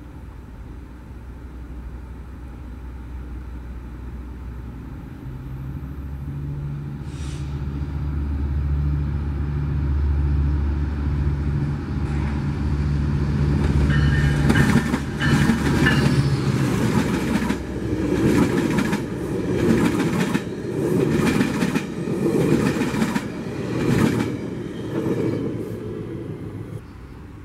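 Metrolink diesel passenger train approaching and passing close by. The locomotive's engine drone builds over the first half, then the cars roll past with rhythmic wheel clatter over rail joints, about one knock a second, fading away near the end.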